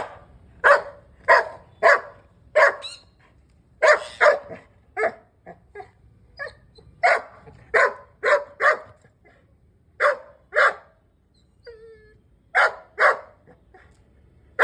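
A dog barking in a long irregular run of short barks, with a brief pause about three-quarters of the way through.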